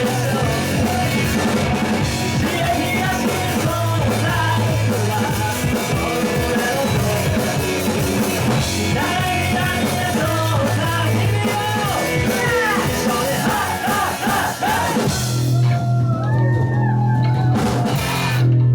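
Rock band playing, with shouted singing over drums, bass and guitar. About fifteen seconds in the drums and cymbals drop out, leaving a held bass note and sliding higher notes.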